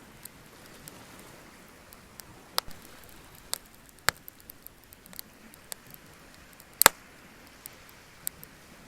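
Wood bonfire crackling, with irregular sharp pops over a low steady hiss. The loudest pop comes about two-thirds of the way through.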